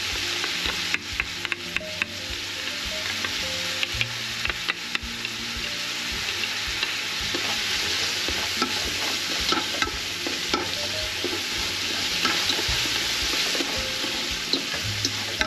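Chopped onion and garlic sizzling steadily in hot oil in an aluminium pot, the start of a sofrito, while a spoon stirs them and clicks and scrapes against the pot.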